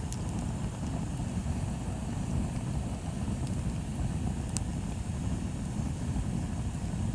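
Wood bonfire burning: a steady low rumble with a few sharp crackles of burning wood, the loudest about four and a half seconds in.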